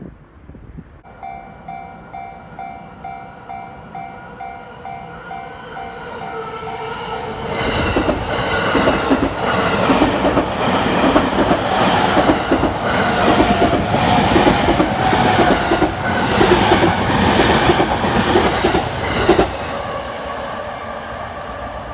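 A level crossing warning bell starts about a second in, a pulsing ding about twice a second. From about seven seconds in a Yamanote Line electric commuter train passes over the crossing for about twelve seconds, its wheels clacking rhythmically over the rail joints, then the sound drops away as it goes.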